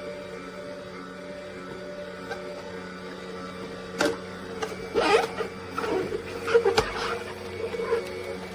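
Cold-press slow juicer's motor running with a steady hum. A sharp knock comes about four seconds in, then a stretch of irregular squeaks and crackles.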